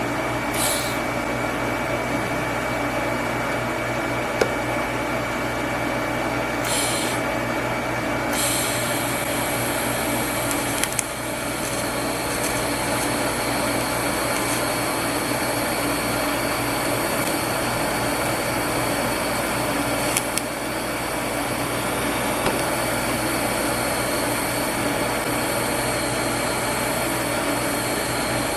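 TIG welder running with a steady machine hum, the torch arc welding a cast iron handle with nickel-type cast iron rod. Two short hisses come in the first seven seconds, and about eight seconds in a steady high arc hiss starts and holds until near the end.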